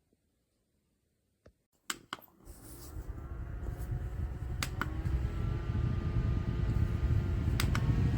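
Portable battery desk fan switched on with a couple of clicks about two seconds in, then running with a steady whir and air rushing onto the microphone. Two more button clicks come while it runs.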